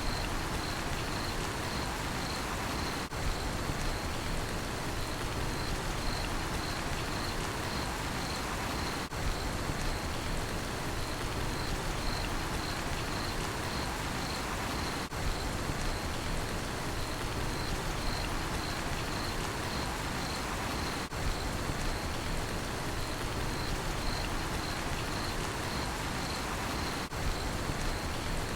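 Steady rain falling, with a cricket chirping in evenly spaced high pulses, a few a second, over it. The recording loops, with a brief dip in level about every six seconds.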